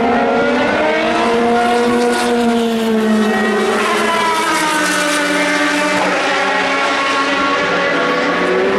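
Several endurance race car engines running at once, their pitches sliding up and down as the cars accelerate, lift off and pass.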